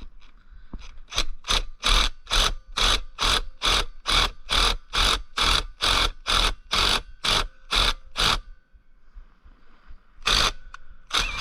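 Ratchet wrench worked in quick, even strokes, a little over two a second, turning the nut on a homemade carriage-bolt bearing press to push a needle bearing into the linkage. After a pause it gives two more strokes near the end.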